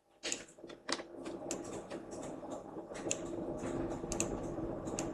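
Computer keyboard and mouse clicking: scattered light clicks at an uneven pace over a steady low hum.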